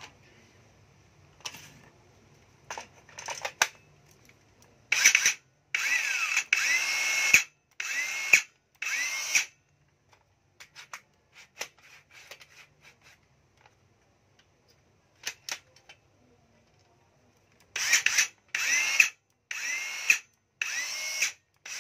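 Makita SS540D 14.4 V cordless saw run with no load in short trigger pulls: two groups of bursts, each burst with a rising whine as the motor spins up. Small clicks and knocks come between the groups.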